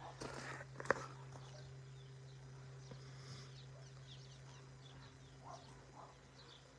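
Faint scattered chirps and calls of birds, more of them in the second half. A single sharp click comes a little under a second in, over a steady low hum.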